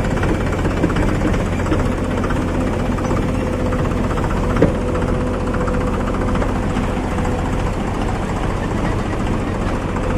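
Diesel tractor engine running steadily with a low, even rumble, with a single short click about four and a half seconds in.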